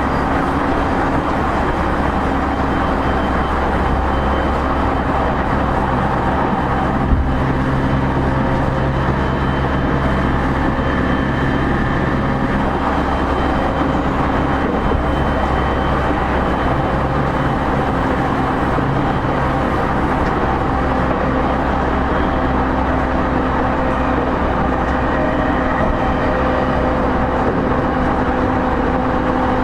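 Running noise inside an E231-0 series electric train's motor car: a steady loud rumble of wheels on rail with a steady hum of the traction motors, and one sharp knock about seven seconds in.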